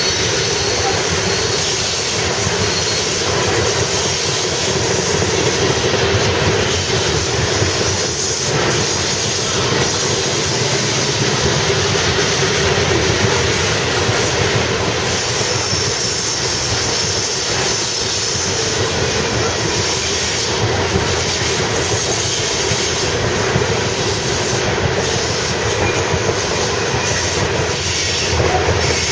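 Loaded coal hopper cars of a Union Pacific freight train rolling past, a loud steady noise of steel wheels on rail with a sustained tone running over it.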